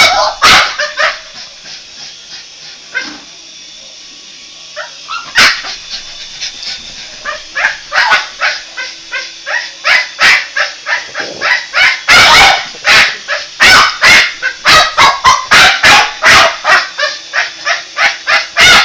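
Boston Terrier barking and yipping excitedly: a few barks, a short lull, then a rising flurry of rapid barks, several a second, through the second half.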